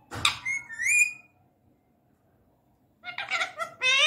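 Indian ringneck parakeet calling: a sharp call with rising whistles in the first second, then a pause, then brief chatter and a loud rising squawk near the end.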